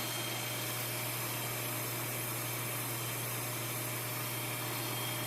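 Steady background hum and hiss with no distinct events: room noise.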